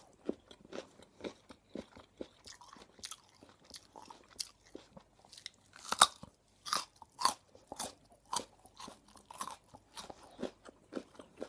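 Raw carrot being chewed right at the microphone: a steady run of crisp crunches, with a loud snapping bite about six seconds in.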